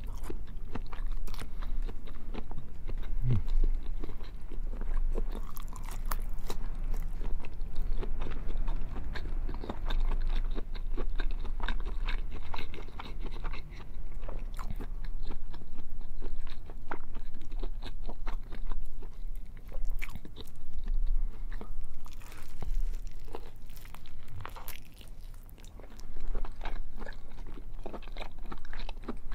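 Close-miked biting and chewing of a thick slab of bacon with a crisp browned edge, with many small, irregular crunches throughout and a short lull a little before the end.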